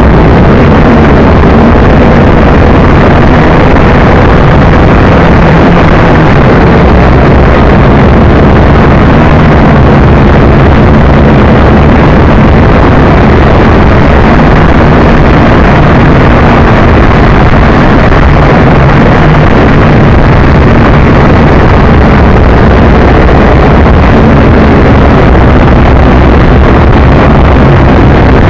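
JJRC H12C quadcopter's motors and propellers running steadily in flight, very loud, with wind noise on the microphone.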